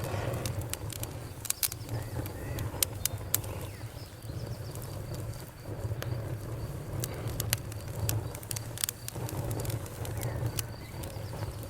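Wood fire crackling: irregular sharp pops and snaps, several in quick clusters, over a steady low rumble of the burning fire.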